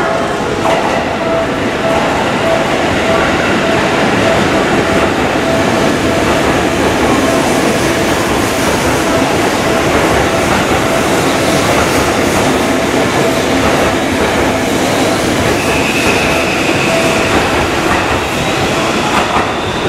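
Seibu 001 series Laview limited express train running along a station platform, its wheels clattering over the rail joints as the cars go by. A high whine comes in during the last few seconds and rises in pitch near the end.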